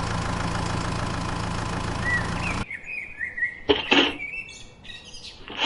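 A steady motor drone with a low hum cuts off suddenly about two and a half seconds in. After that, birds chirp and there are a few short knocks.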